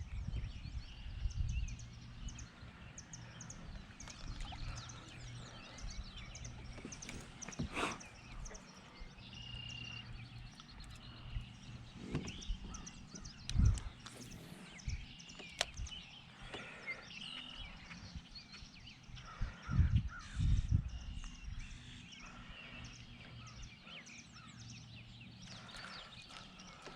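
Wild birds singing and calling, with many short chirps and some held whistled notes, over wind rumbling on the microphone. A few dull thumps stand out about a third, halfway and three quarters of the way through.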